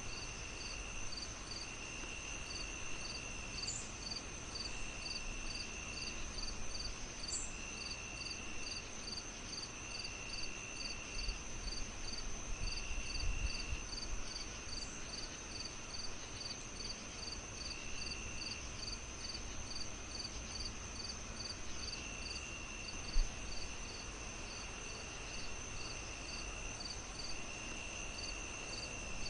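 Crickets chirping in several layers: a steady high trill, a pulsed chirp about twice a second, and a lower trill that comes and goes in spells of a second or two. Underneath runs a low rumble, with a single low thump about two-thirds of the way through.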